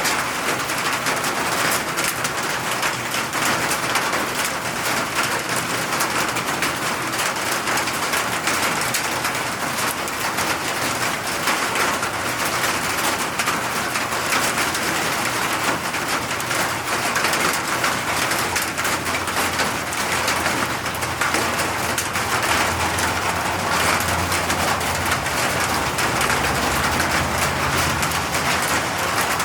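Steady rain falling: a dense, even hiss of drops pattering on surfaces, with a low rumble underneath for several seconds near the end.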